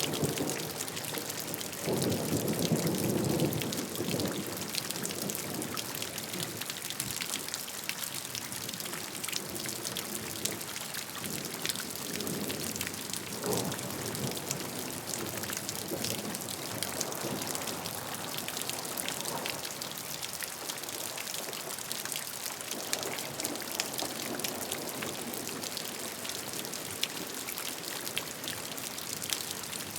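Steady rain falling, many small drops pattering on a surface, with a few brief low swells of water noise, the longest about two seconds in.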